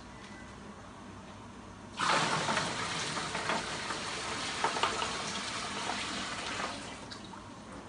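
Water running from a tap for about five seconds, starting suddenly about two seconds in and easing off near the end.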